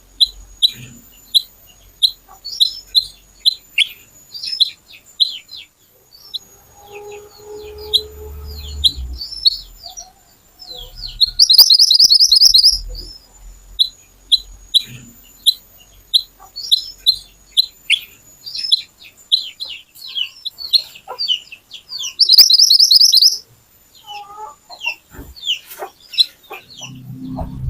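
A kuniran (mantenan) songbird singing in a rapid stream of short, sharp, high chirps, breaking twice into a loud, dense trill, once about twelve seconds in and again about twenty-two seconds in.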